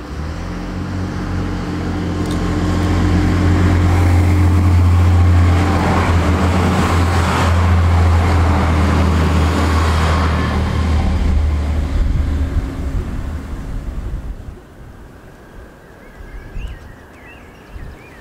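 Green Irish Rail passenger train approaching and passing beneath: a steady low hum with rising wheel and rail noise. It is loudest from about four to eleven seconds in, then dies away quickly around fourteen seconds.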